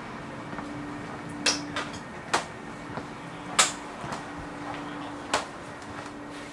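Inside a commuter train carriage: a steady hum runs under a handful of sharp, irregular clicks and knocks from the carriage.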